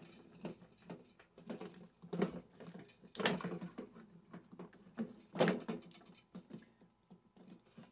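A few separate knocks and clatters of metal microwave parts being handled and set down during disassembly, the loudest about three seconds in and again about five and a half seconds in.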